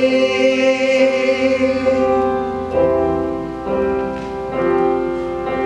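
Choir holding the last chord of the chorus, fading about two seconds in, then piano chords leading into the next verse.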